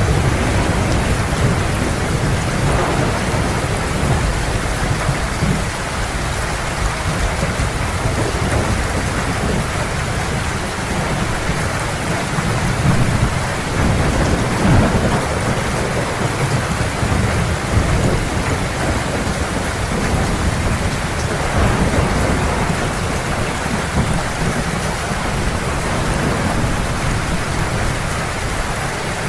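Heavy rain falling steadily, with a continuous deep rumble of thunder underneath.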